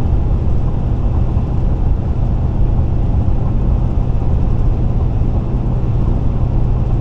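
A car cruising at highway speed, heard from inside the cabin: a steady low rumble of tyre and road noise with a constant hum.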